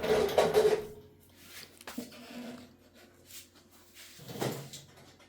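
Equipment and packaging being handled: a loud scrape or rustle in the first second, then a few sharp knocks.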